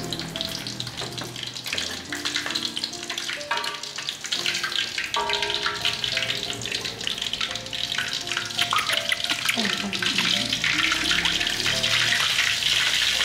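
Background music with held melodic notes over a steady sizzling hiss of food frying in a pan. The hiss grows a little louder toward the end.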